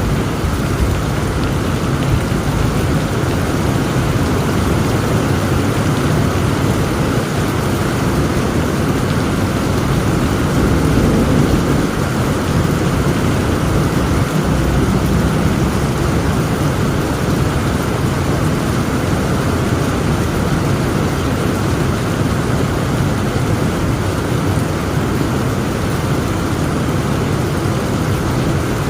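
Heavy rain falling steadily with a low rumble of distant thunder underneath, the rumble swelling a little about ten seconds in.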